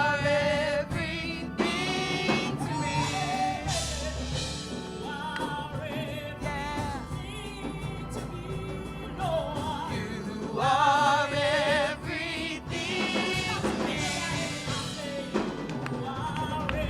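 Gospel worship music: singing with wavering held notes over instrumental accompaniment.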